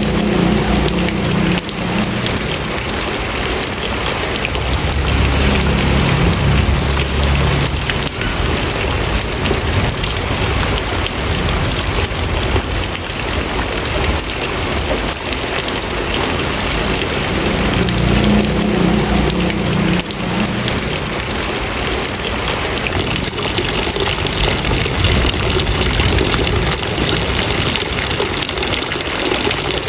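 Steady, even rain falling on a surface, with a low rumble swelling now and then.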